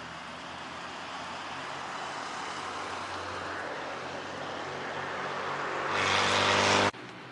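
A motor vehicle approaching and passing close by, its engine hum and tyre noise growing steadily louder to a peak near the end, then cutting off suddenly.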